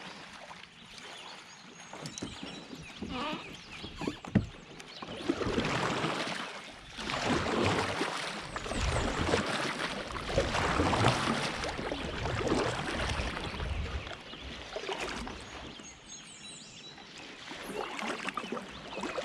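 Creek water rushing and splashing around a kayak in a shallow stretch, rising and falling in swells, with one sharp knock about four seconds in.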